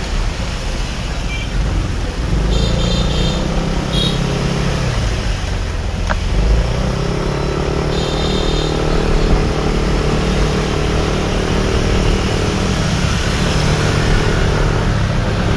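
Motorbike engine running while riding through city traffic, its pitch climbing and falling a few times early on, then holding steady, over constant wind and road noise.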